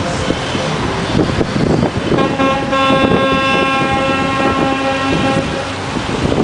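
Truck horn sounding one long steady blast of about three and a half seconds, over engine and street noise.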